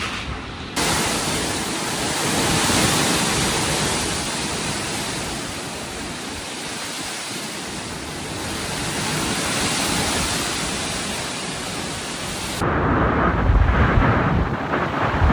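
Typhoon wind and rain: a steady rushing noise that swells and eases. Near the end it changes abruptly to gusts of wind buffeting the microphone.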